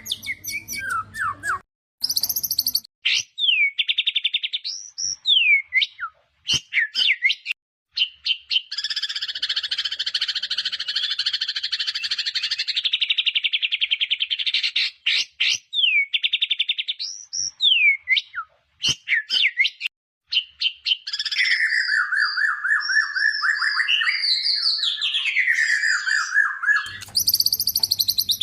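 White-rumped shama singing a varied song of fast whistles, down-sweeping notes and trills, with a long dense trill a third of the way in and a run of tumbling notes near the end. Its phrases are cut by a few abrupt short silences, as in an edited song recording.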